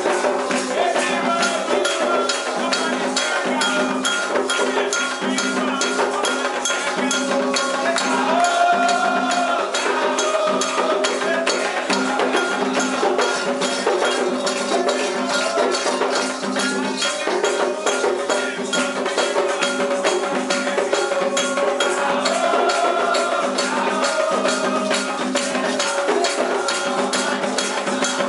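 Candomblé ritual music: voices singing a chant over fast, steady percussion of struck bells and hand percussion.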